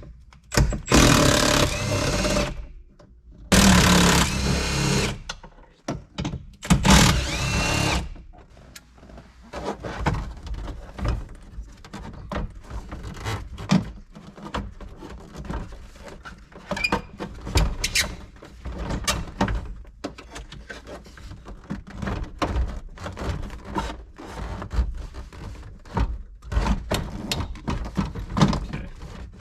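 A power tool runs in three short bursts, about a second to a second and a half each, in the first eight seconds, backing out dashboard bolts. After that come scattered clicks and knocks of tools and trim pieces being handled.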